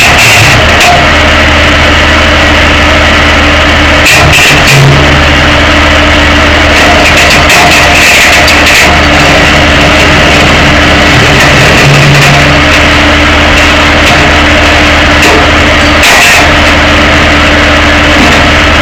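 Tow truck's engine running, picked up from a camera in the cab: a loud, steady hum with a few brief knocks.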